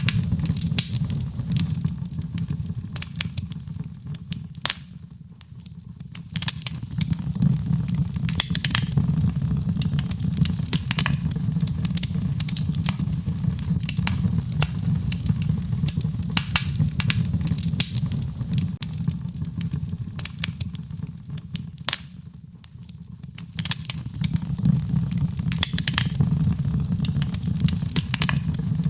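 Wood fire crackling in a fireplace: a steady low rumble of burning with frequent sharp pops and snaps. The rumble thins out briefly twice, at about five seconds in and again past twenty seconds.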